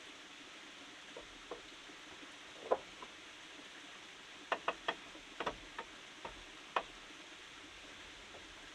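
About a dozen light, sharp knocks and clicks, scattered at first and then bunched together in the middle, over a steady rush of running stream water.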